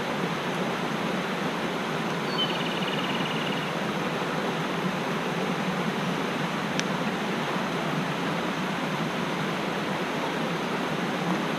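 Mountain stream rushing steadily. A small bird gives a short, fast trill about two and a half seconds in, and there is a single sharp click just past the middle.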